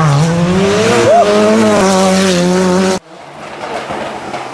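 Ford Sierra Cosworth Group A rally car's turbocharged four-cylinder engine running hard at high revs, its pitch creeping up a little. About three seconds in, the sound breaks off suddenly and picks up again quieter.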